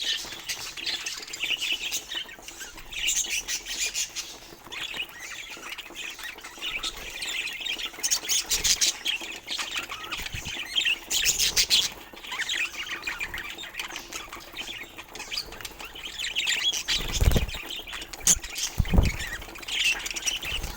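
Budgerigars chattering continuously with warbling chirps and scratchy squawks, with two soft thumps near the end.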